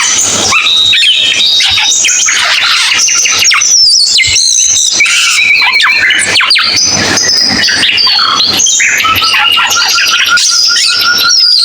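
Cucak keling songbird singing without pause: a rapid run of varied whistles, sweeping notes and harsh chattering trills, with a quick repeated note near the end.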